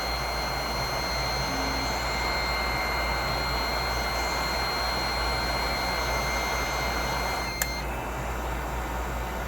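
Steady whirring of a small electric blower fan, with a low hum and a thin high whine. About seven and a half seconds in there is a single click, after which the whine stops.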